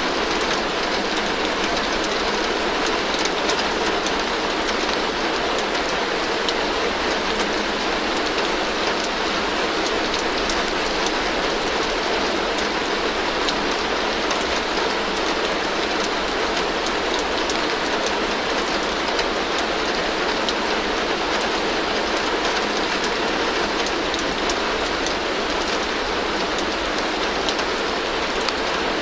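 Heavy rain falling steadily on a tin roof: a dense, even hiss full of small drop taps on metal, with no breaks or changes.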